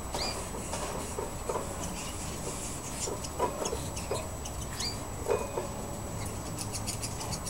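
Scattered short bird call notes, several low calls and a few thin high chirps, spaced about a second apart over a steady low background hum.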